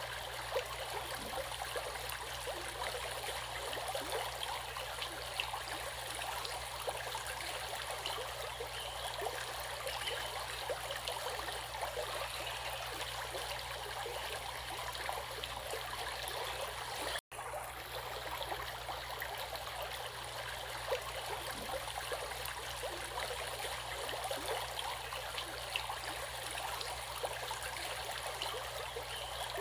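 Water in a stream rushing and babbling steadily over rocks, with many small splashes and no swell of waves. The sound cuts out for an instant about 17 seconds in.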